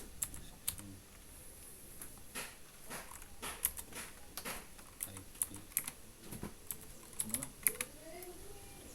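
Computer keyboard typing: separate keystrokes at uneven intervals, with short bursts of quicker taps.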